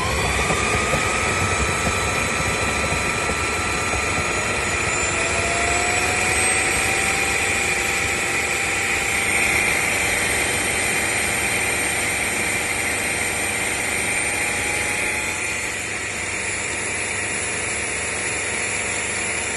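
Cordless wet/dry vacuum-mop motor spinning up and then running steadily with a high whine. The whine drifts slightly upward in pitch through the middle. The motor cuts off abruptly near the end.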